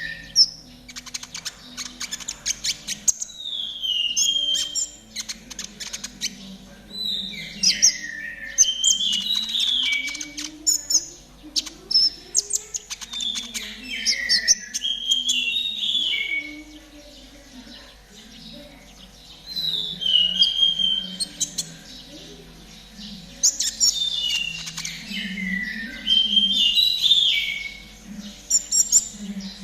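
Recorded song of a konin trotol, played as a master track: bursts of quick, high chirps and falling trills repeat every few seconds with short pauses between. A low wavering tone runs underneath.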